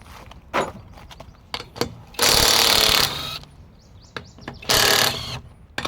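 An impact wrench hammering in two short bursts, the first a little under a second long and the second shorter, with clicks of handling between them.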